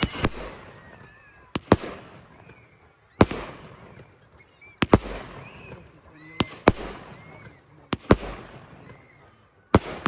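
Fireworks going off in a display: sharp bangs about every second and a half, some in quick pairs, with short whistling tones in between.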